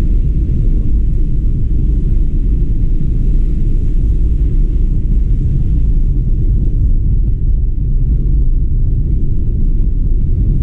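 Steady low rumble of a moving car, road and wind noise with no change in pitch or level.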